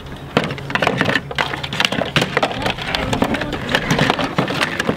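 Plastic toy track pieces and packaging being handled: a busy run of small clicks, clatters and crinkles.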